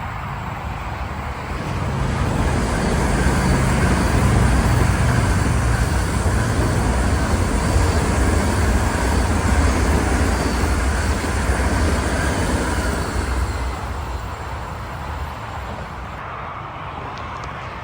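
Electric train passing on a mainline: rumble and wheel-on-rail noise swell over about two seconds, stay loud for about ten, then fade away.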